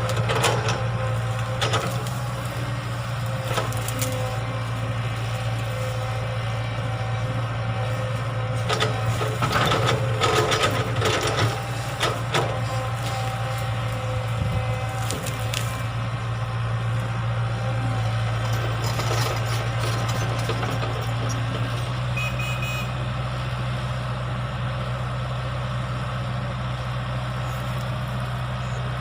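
Excavator's diesel engine running steadily under work, with clanks and scraping from the bucket and arm, busiest about a third of the way in. A few short high beeps sound about three quarters of the way through.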